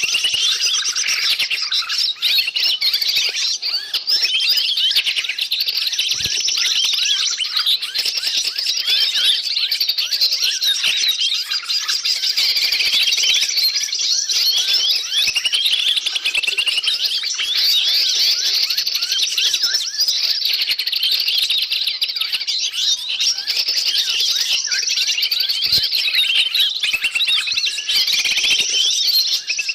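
Dense, unbroken chorus of many small birds chirping and trilling over one another. It is a noisy bird-lure (pikat) recording used to draw wild forest birds in.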